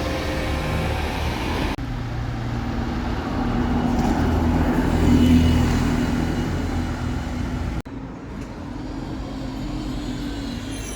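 Bus engine running, growing louder about halfway through and then fading, with the sound cutting off abruptly twice.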